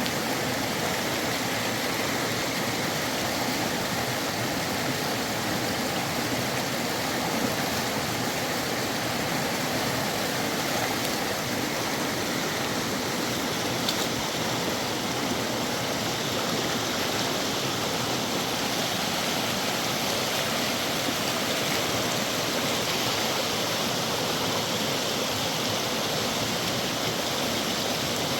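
Fast-flowing river water rushing steadily, an even, unbroken noise.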